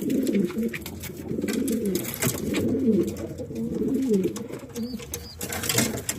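Domestic racing pigeons cooing in a loft: several birds' low, rolling coos overlapping continuously, with scattered light clicks and taps among them.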